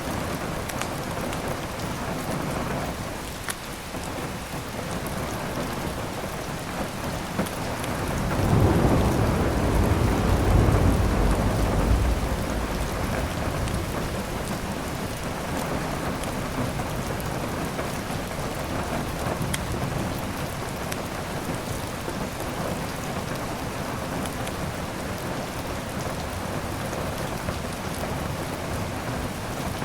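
Steady heavy rain, with a roll of thunder rumbling low for about four seconds starting some eight seconds in. Faint crackles from a wood fire tick now and then over the rain.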